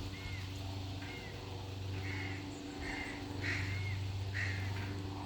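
A young bird giving short, repeated calls, about one or two a second, while waiting to be fed. A steady low hum runs underneath.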